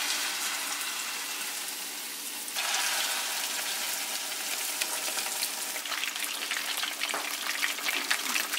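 Beer-battered fish pieces sizzling as they fry in hot oil in a frying pan. The sizzle gets louder about two and a half seconds in, and sharper crackles and pops come through in the last few seconds.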